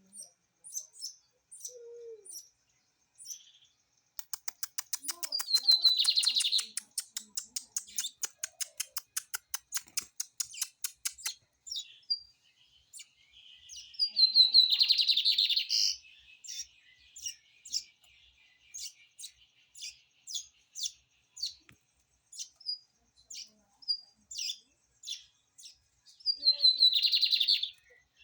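Lined seedeater (bigodinho) singing: a fast, even run of dry clicking notes, about five a second, starting about four seconds in, and three loud phrases of quick descending high notes, with short chirps scattered between them.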